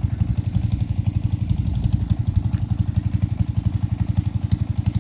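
An engine running with a steady, rapid low chugging.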